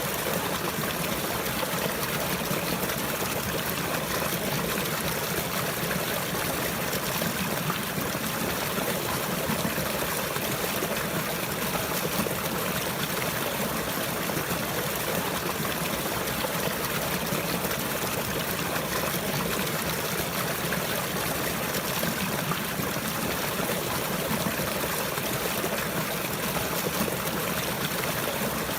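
Water trickling and flowing steadily, a continuous even rush like a small stream.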